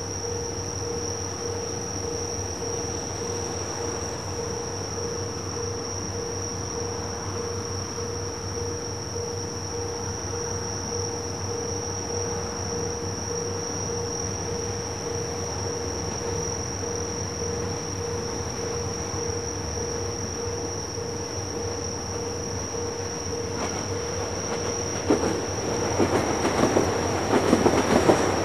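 Diesel trains idling at a station with a steady hum under a high insect chirr. About 25 seconds in, a train starts to pull away, and its wheels clatter over the rail joints, growing louder.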